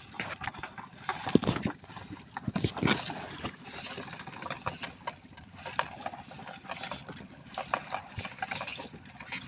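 Irregular splashing and knocks on a small fishing boat as a fishing net is hauled aboard, with water running off the net.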